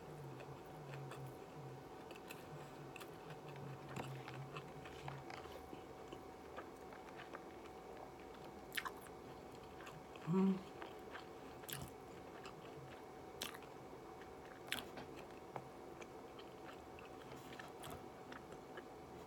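Close-up chewing of a crispy shrimp tempura maki roll, with scattered small crunches and wet mouth sounds over a faint steady hum.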